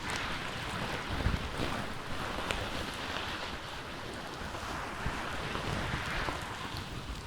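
Fingers rubbing and brushing a fluffy furry microphone windscreen right on the microphone: a steady rustling hiss with low rumble and a few small crackles, heaviest about a second in.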